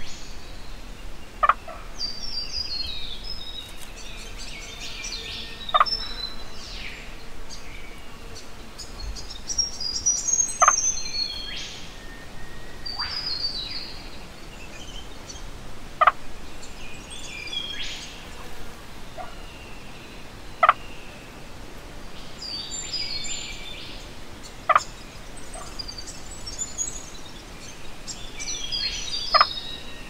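Birds calling. A short, sharp call comes about every four to five seconds and is the loudest sound, over repeated high chirping phrases that step down in pitch.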